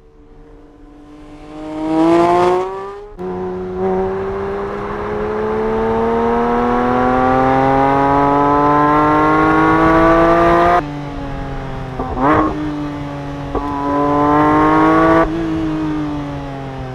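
Porsche 911 GT3 S/C's 4.0-litre naturally aspirated flat-six accelerating hard, revs climbing steadily in a few separate pulls, the longest rising for about seven seconds. There are sudden drops in level between the pulls and a short sharp rev spike about twelve seconds in.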